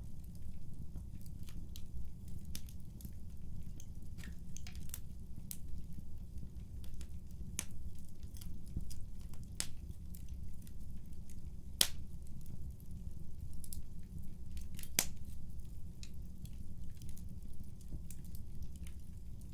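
Wood fire burning in a fireplace: a steady low rumble of flames with irregular sharp crackles and pops, two louder pops about twelve and fifteen seconds in.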